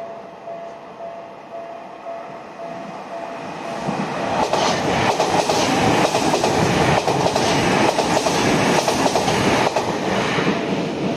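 An electric commuter train passes at speed. The sound grows from about two seconds in and is loudest from about four to ten seconds, with the wheels clicking rapidly over the rail joints, then it fades near the end.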